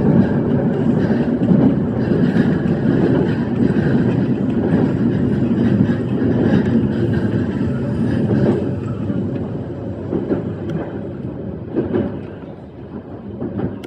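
E131-series electric train running along the track, a steady rolling rumble heard from the front of the train, growing quieter near the end.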